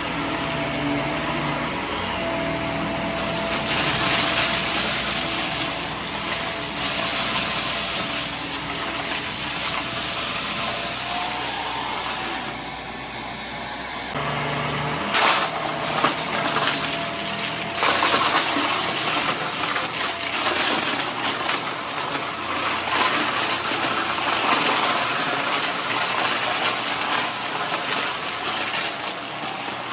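Vacuum cleaner running with a steady loud rushing of suction. About fourteen seconds in, the low motor hum beneath it drops away while the rushing goes on, now with scattered sharp clicks of picked-up debris.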